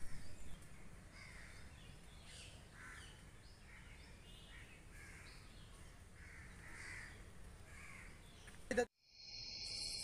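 Faint outdoor ambience with birds giving short calls over and over, one about every half-second to a second. About nine seconds in, the sound cuts off abruptly and soft synthesised background music starts.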